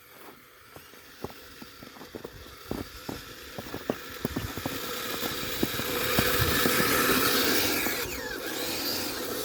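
Kyosho Blizzard 2.0 RC snowcat running through snow: a string of sharp clicks and clatter from its tracks, building into a louder steady electric-motor whine that is loudest about six to seven seconds in, then eases with a falling pitch near the end.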